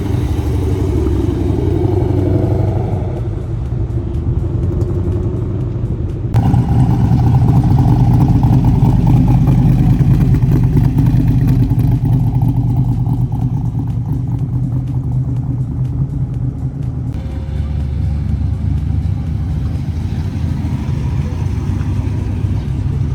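Car engines running with a steady, loud low rumble. The sound changes abruptly about six seconds in and turns louder.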